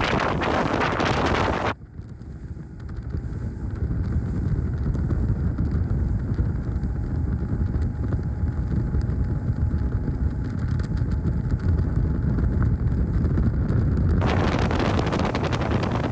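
Wind buffeting the microphone over a boat running on the water, driven by a 2007 Mercury 225 Optimax two-stroke V6 outboard. From about two seconds in until near the end the sound turns dull and low, with the high end gone.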